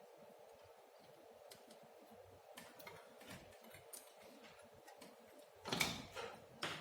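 Small tools and electronic parts being handled on a workbench: faint scattered clicks and taps, with a louder clatter about six seconds in and another knock near the end, over a faint steady hum.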